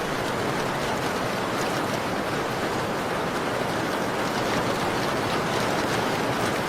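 Steady rain against a window: an even, unbroken hiss with faint scattered ticks of drops.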